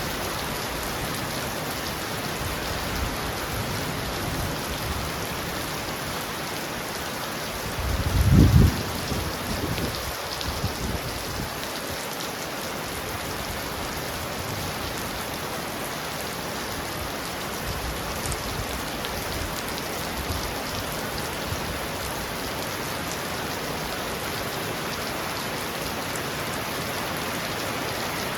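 Heavy rain falling steadily on a roof, with a short, low rumble of thunder about eight seconds in that fades over the next few seconds.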